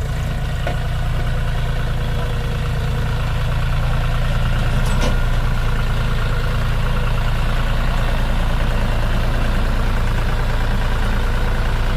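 Tractor engine running steadily, getting slightly louder about four seconds in.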